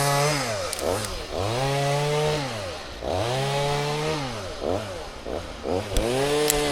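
Two-stroke chainsaw being revved up and let back down to idle over and over: two long revs, a few quick blips, then another rev near the end.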